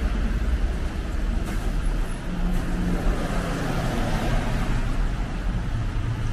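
Steady road traffic: motor vehicles running along a street, with a low rumble throughout and an engine hum rising out of it a little after two seconds in.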